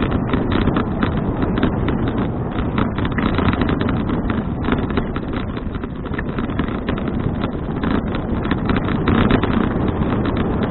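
Wind rushing over an action camera's microphone while riding a bicycle: a loud, steady rumble with dense rapid crackle throughout.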